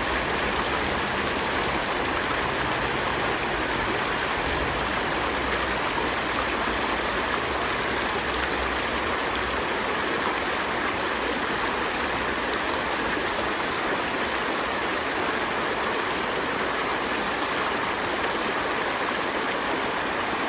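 A river stream flowing steadily: an even rush of water with no breaks.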